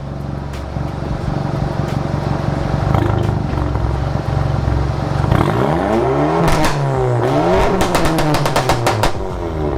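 Volkswagen MK7 GTI's turbocharged four-cylinder engine, straight downpipe and muffler delete, running steadily, then revved up and down twice, with a rapid string of exhaust pops and crackles as the revs fall: the aggressive pops of its EQT tune.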